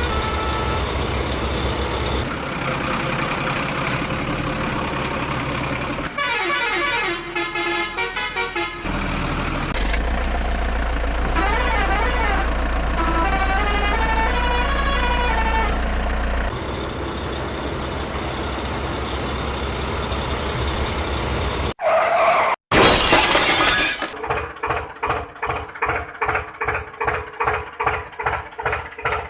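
Cartoon vehicle sound effects: engines running and horns honking, the sounds changing every few seconds. A loud rushing burst comes about 23 seconds in, followed by a regular pulsing of about three beats a second.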